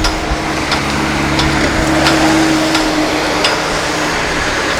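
Road traffic passing, a vehicle engine humming steadily until it fades about four seconds in, with sharp clicks or knocks repeating about every 0.7 seconds.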